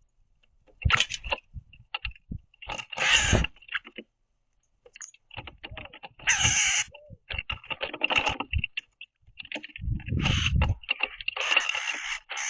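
Northern cardinals and other birds landing, flapping and scuffling on a wooden platform feeder close to the microphone. Several bursts of wingbeats, taps and scrapes come a few seconds apart, the longest in the second half.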